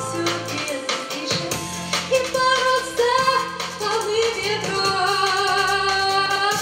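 Song performed over a backing track with a steady beat and bass line. A woman sings long, wavering held notes.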